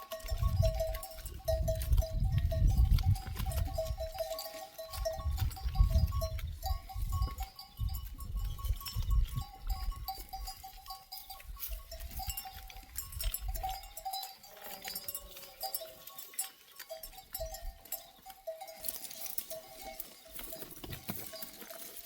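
Neck bells on a flock of sheep and goats ringing and clinking steadily as the animals move. A low rumble sits under the bells for the first two-thirds and stops about fourteen seconds in.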